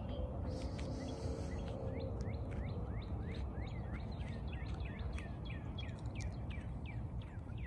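A bird calling repeatedly in short, downward-slurred chirps, about three a second, starting about two seconds in, over a steady low outdoor rumble.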